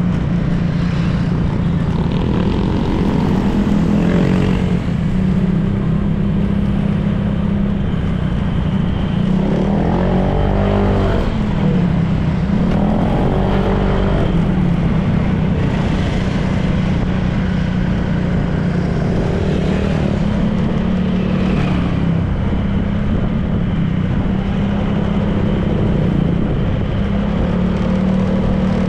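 Honda PCX 160 scooter's single-cylinder engine running at a steady cruising speed, with wind and road noise. Its pitch wavers slightly. Other vehicles go by twice, about ten and thirteen seconds in.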